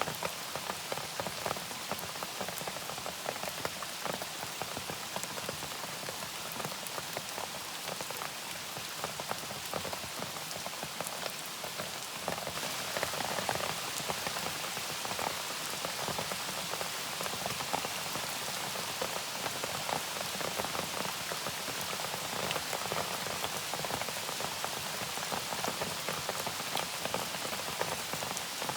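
Steady rain falling on a surface, a dense spread of individual drop ticks over a constant hiss, growing slightly heavier a little before halfway through.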